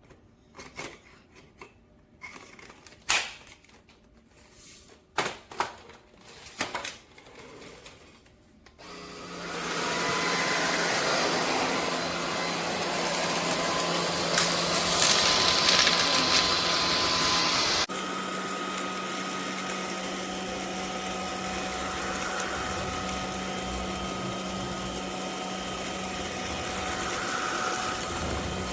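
A few sharp clicks and knocks, then the SunSare X11 cordless stick vacuum's motor switches on and runs steadily with a constant hum. About halfway through the sound drops suddenly to a quieter steady run.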